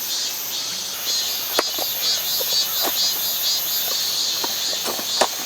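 Autumn crickets chirping in a steady pulsing chorus, with a few sharp clicks, the loudest about a second and a half in and near the end.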